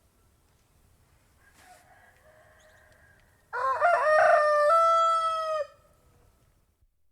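Rooster crowing once, a loud cock-a-doodle-doo about two seconds long that steps up and then settles onto a held final note, starting about three and a half seconds in. A much fainter call is heard just before it.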